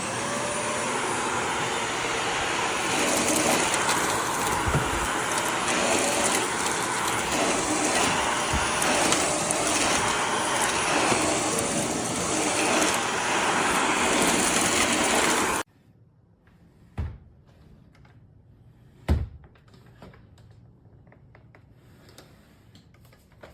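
Shark NV360 Navigator upright vacuum cleaner running, a loud steady roar with a rising whine as the motor spins up at the start. The roar cuts off abruptly about two thirds of the way through, followed by two short thumps.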